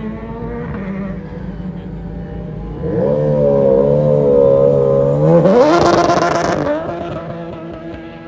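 Car engine running, then growing louder with a wavering pitch about three seconds in, before revving up sharply as it accelerates away; it settles to a lower steady note and fades near the end.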